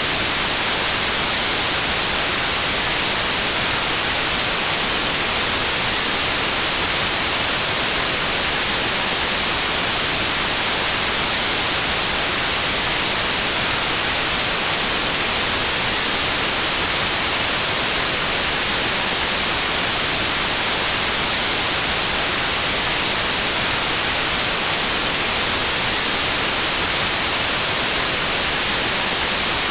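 Steady white noise: an even hiss spread across all pitches, strongest in the highest ones, with no change in level.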